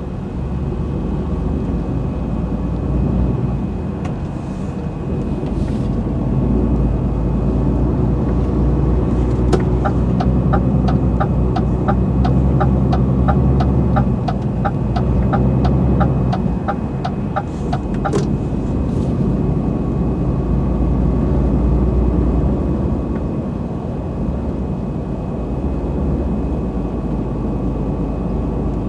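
Truck running with a steady low engine and road rumble. In the middle, for about eight seconds, a regular ticking at about two ticks a second sounds over it, then stops.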